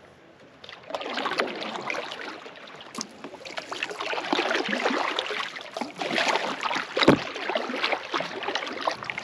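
Paddle strokes dipping and splashing in lake water, starting about a second in, with a sharp knock about three seconds in and a low thump near the end.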